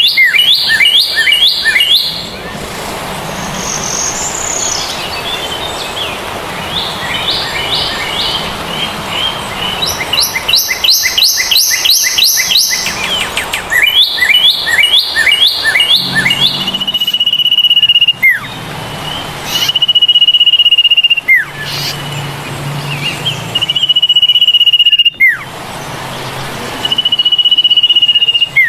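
Birds chirping in quick runs of rapidly repeated high notes. From about halfway, several long, steady, high whistled notes follow, each ending in a quick falling slide.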